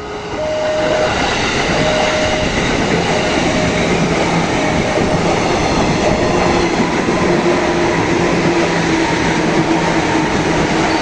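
Two trains passing at speed very close by, a loud continuous rush of wheels on rail and moving air. A steady low hum runs through it from about three seconds in.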